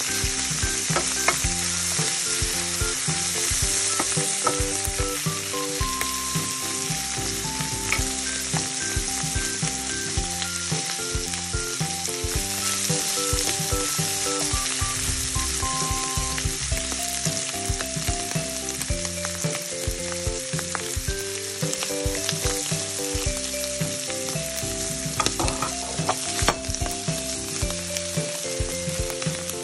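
Sliced bamboo shoots, mushrooms and onions sizzling in oil in a nonstick frying pan as they are stirred: a steady, dense hiss with a few scrapes and taps of the spatula against the pan. A faint tune of held notes plays underneath.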